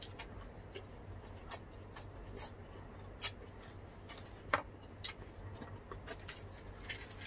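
Mouth sounds of eating: irregular short crunches and clicks of chewing fried spring rolls, about one every second.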